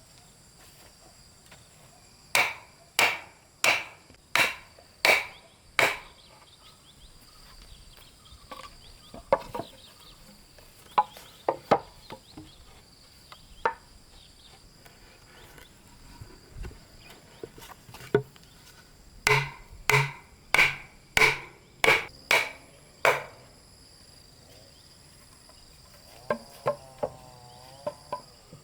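A hand tool striking wood in two runs of six or seven even blows, about one and a half a second, with scattered lighter knocks between the runs. Insects sing steadily underneath.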